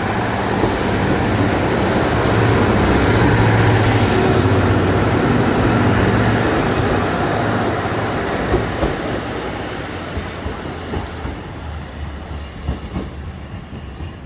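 A train running past close by: its engine and running noise build to a peak a few seconds in, then fade as it moves away. As it goes, a run of wheel clicks over the rail joints and a faint high wheel squeal come through.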